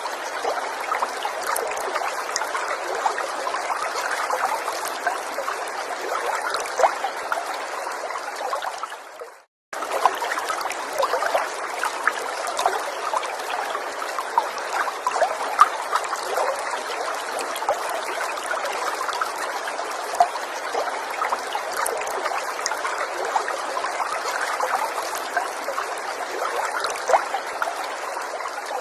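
A small stream trickling steadily, with little plinks of water throughout. About nine seconds in the sound fades out into a moment of silence, then cuts back in abruptly.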